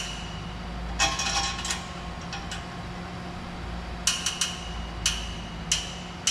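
Short runs of metallic clinks and clicks from hand tools and exhaust parts being fitted and tightened, in several bursts with a faint metal ring, over a steady low hum.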